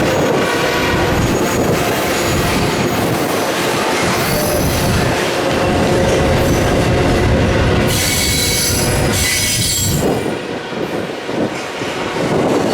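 Freight train rolling past with wheels squealing over a steady rumble of rail noise; the thin high squeal is loudest about eight seconds in.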